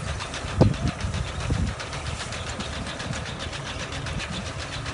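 Tractor-drawn four-row potato harvester at work: a steady engine drone under a fast, even clatter from the machine, with a louder thump just over half a second in.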